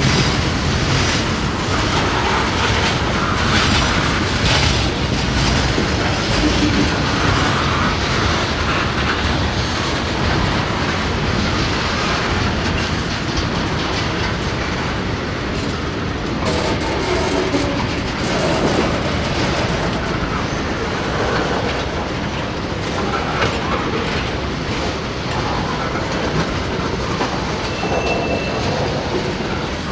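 A freight train rolling past, its wheels clicking over the rail joints in a steady, continuous rumble, with a brief high wheel squeal near the end.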